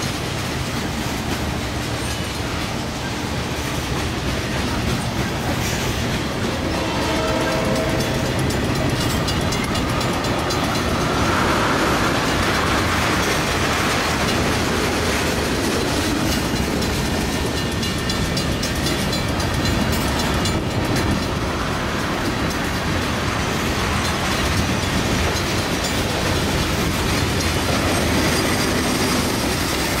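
Freight train cars (covered hoppers and tank cars) rolling past on the rails: a steady rumble of wheels on track that carries on the whole time.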